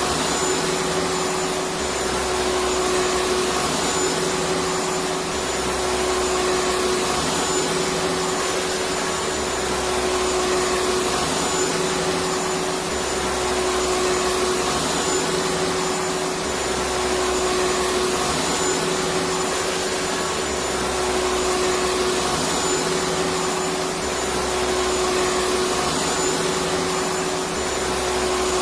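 Electric vacuum cleaner running steadily: an even rushing noise with a constant motor hum, swelling slightly about every two seconds.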